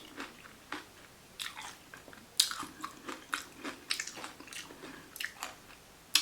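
Close-up chewing and crunching of a vegan salad taco, an irregular run of wet, crackly mouth clicks, with a louder crunch about two and a half seconds in.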